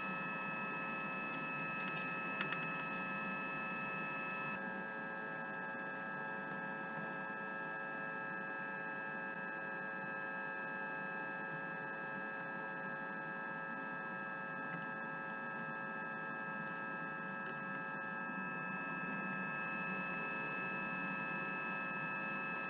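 Steady electrical hum with several high whining tones held constant, one of the tones shifting about four and a half seconds in.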